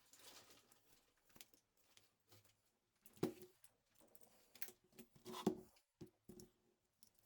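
Faint, scattered clicks and knocks of something being handled, the loudest about three seconds in and a cluster around five and a half seconds, over quiet room tone.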